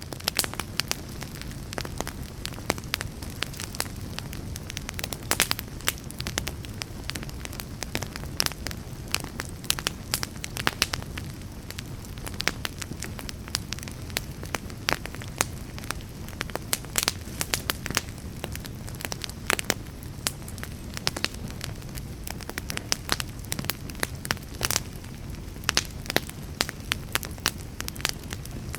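Wood fire crackling: a steady low rumble of burning with frequent sharp snaps and pops, some much louder than others.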